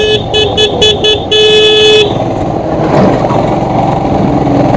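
A vehicle horn tooting about five short times and then once longer, all within the first two seconds, over a motorcycle engine running steadily in fifth gear.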